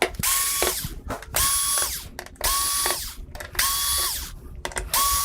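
Electric screwdriver backing out the screws that hold a TV main board, running in five short bursts with a steady whine in each.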